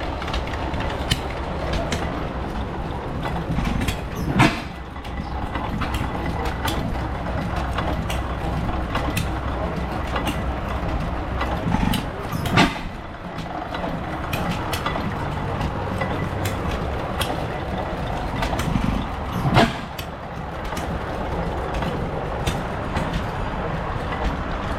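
Old engines running steadily, with a low hum and many light ticks, and three louder sharp sounds several seconds apart.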